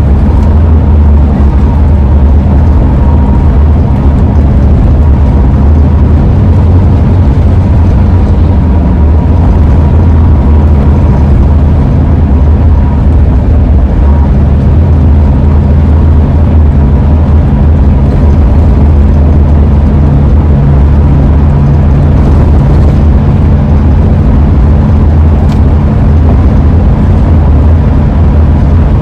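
Loud, steady road and engine rumble of a 2001 Ford E-350 camper van driving, heard from inside the van, with a faint steady high tone over the first several seconds.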